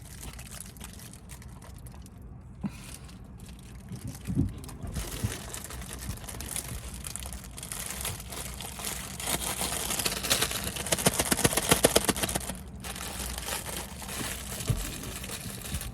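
Plastic food wrapper crinkling and crumpling as it is handled, denser and louder about ten seconds in.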